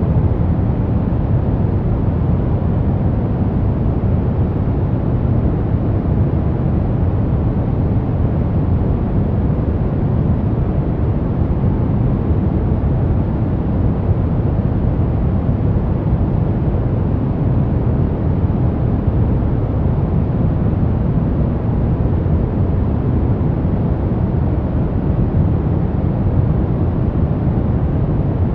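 Steady, unchanging white-noise track for baby sleep: an even noise weighted heavily toward the low end, with little treble.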